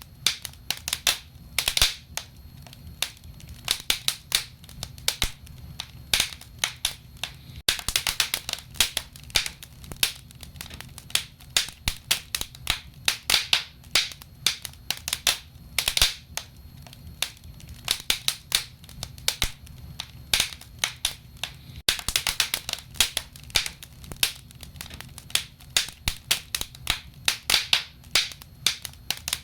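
Wood fire burning in a fireplace, crackling with frequent, irregular sharp pops and snaps over a low, steady rumble of the flames.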